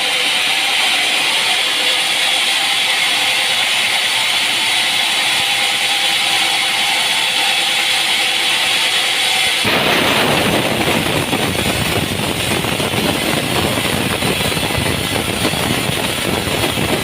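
A machine running loudly and steadily with a high hiss. About ten seconds in, it changes abruptly to a fuller, deeper noise.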